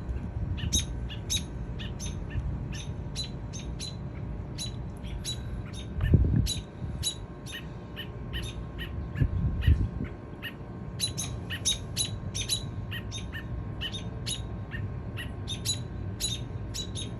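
Small birds giving short, sharp, high chirps over and over, a couple a second, with brief pauses. Two low muffled bumps, about six seconds in and again near ten seconds, are the loudest sounds.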